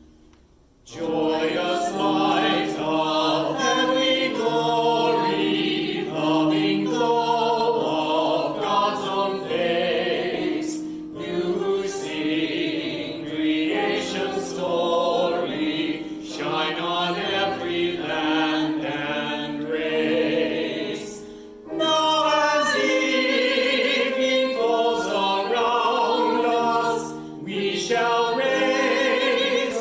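A small group of voices sings a liturgical evening-prayer chant over sustained keyboard chords. It starts about a second in and comes in phrases, with short pauses between them.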